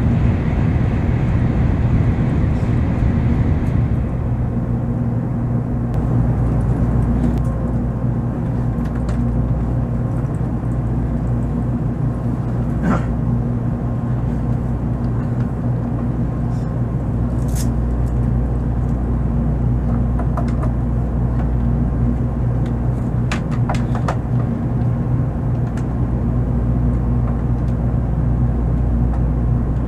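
Steady low rumble and electrical hum inside a Shinkansen bullet-train carriage, with a few faint clicks. It turns slightly quieter after the first few seconds.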